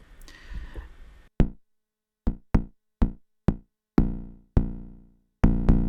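Arturia DrumBrute Impact's analog FM drum voice being triggered, a series of sharp pitched hits. The first few are short, and from about four seconds in the hits ring out longer.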